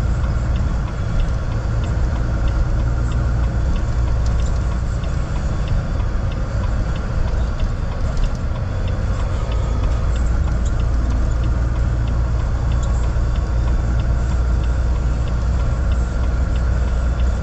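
Steady low rumble of a car driving, heard from inside the cabin: engine and road noise, with a faint ticking a few times a second.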